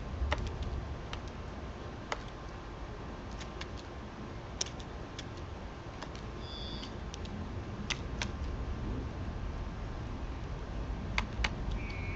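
Irregular sharp taps and clicks from birds and squirrels feeding at a backyard feeding spot, over a low steady rumble. A short, high two-note bird chirp comes about six and a half seconds in.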